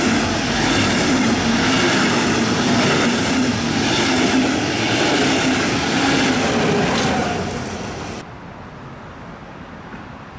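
A DB double-deck push-pull train with an electric locomotive passing through the station at speed close by: a loud, steady rush of wheels on rail. It fades after about seven seconds and cuts off sharply about eight seconds in, leaving a much quieter steady background.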